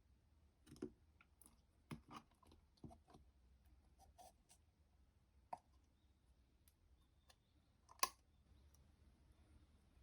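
Slime being played with by hand, making scattered soft sticky clicks and pops, with a sharper, louder pop about eight seconds in.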